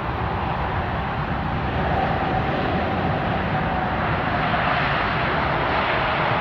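Jet engine noise from a landing Airbus A380's four engines, a steady rushing sound with a faint whine that slowly drops in pitch.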